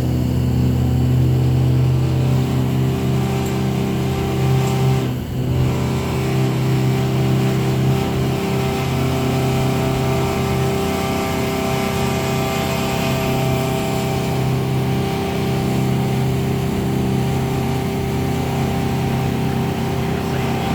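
Boat engine running at a steady speed while under way: a loud, even hum with a fixed low pitch, with a brief dip about five seconds in.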